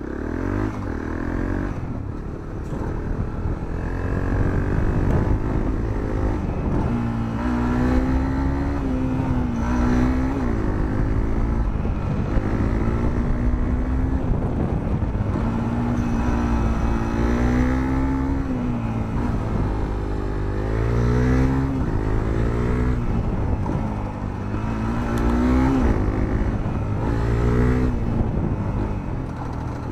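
Honda CRF250L's single-cylinder four-stroke engine, breathing through a Moriwaki aftermarket muffler, heard onboard as the bike is ridden: the engine note climbs under throttle and drops repeatedly, again and again, as the rider accelerates, shifts and rolls off.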